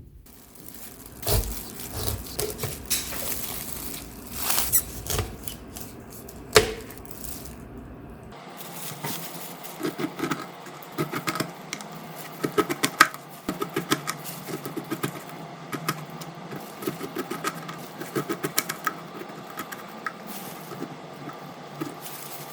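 Rabbits eating fresh pineapple: quick, repeated crunching and wet chewing close to the microphone. The first several seconds carry louder irregular knocks and rustling before the chewing settles into a steady run of small crisp bites.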